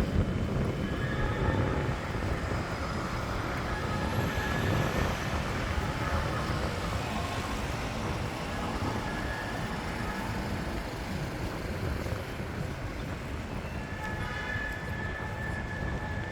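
City street ambience dominated by a steady low rumble of traffic, with a few faint held tones above it.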